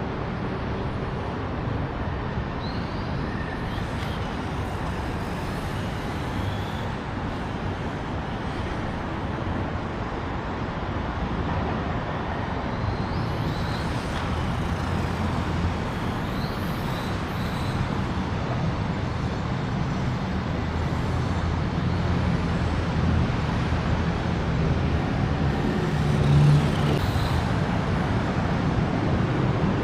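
Steady rumble of road traffic, growing a little louder toward the end, with a brief louder hum about 26 seconds in and faint short chirps above it.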